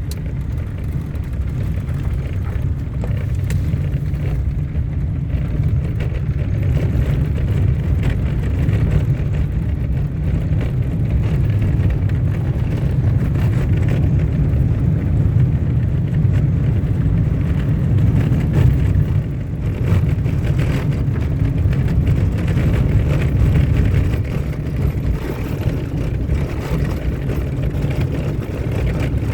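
Car driving along a dirt road: a steady low rumble of engine and tyres.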